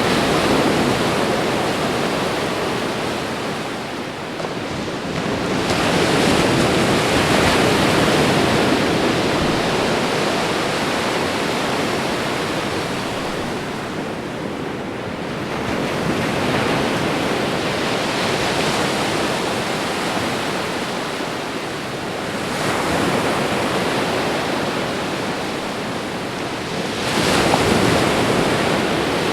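Ocean waves breaking and washing on a shore, a continuous rush of surf that swells and ebbs every few seconds, with a sharper surge near the end.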